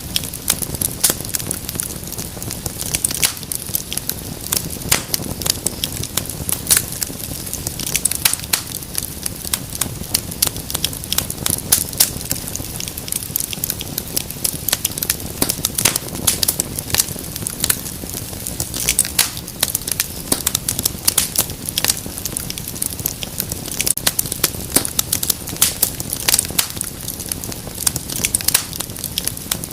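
Wood fire crackling: dense, irregular sharp pops and snaps over a low steady rumble of the flames.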